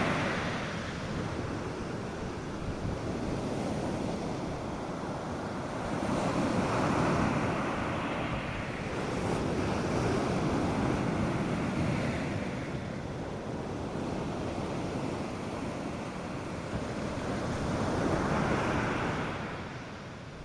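North Sea surf breaking on a beach: a continuous wash of waves that swells three times as breakers roll in and then drains away, with a light wind on the microphone.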